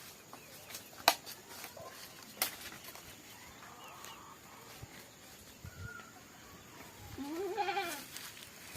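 A goat bleats once near the end, a wavering call about a second long. Earlier, two sharp clicks about a second and a half apart are the loudest sounds.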